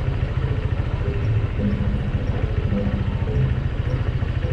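Small motorbike engine running steadily with a fast low pulsing, under a steady rush of noise.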